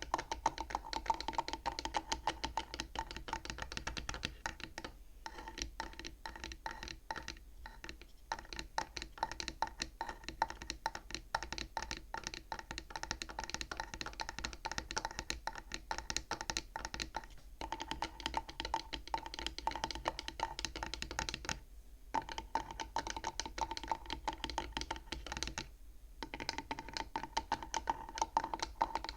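Fingers tapping rapidly on the wooden frame of a bead abacus toy: a fast patter of light wooden knocks with a hollow ringing tone, broken by a few short pauses.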